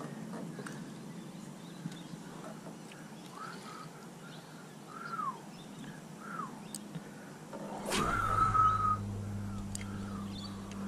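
Bird calls: a few short arched calls, then about eight seconds in a louder call that rises and holds a steady note for about a second, with a steady low hum starting at the same moment.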